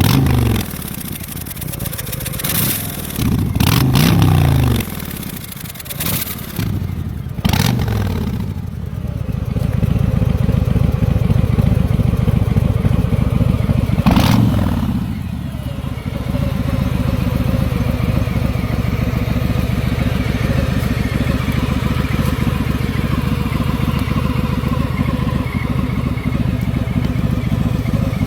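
Harley-Davidson Milwaukee-Eight V-twin running through a BTC "Gangsta" exhaust with Kess Tech electronic mufflers. It is blipped up and back down several times, with a couple of sharp cracks between revs, and then settles to a steady idle for the second half.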